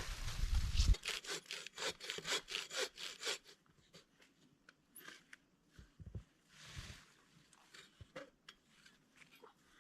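Hand saw cutting wood. It starts loud, then goes into quick rasping strokes for a few seconds, which thin out to scattered lighter scrapes and knocks.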